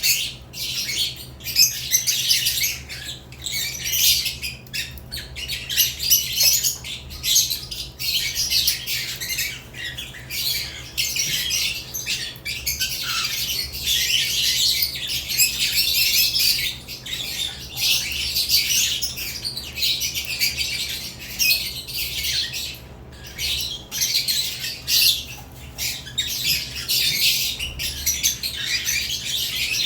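A flock of caged lovebirds chattering and squawking without pause, in high-pitched, overlapping calls.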